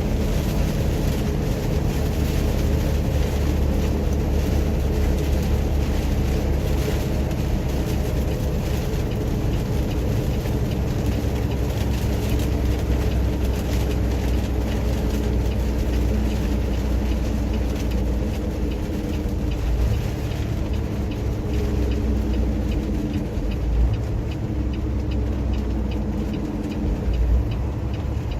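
Steady drone of a truck's engine with tyre and road noise, heard from inside the cab while driving on a rain-soaked road.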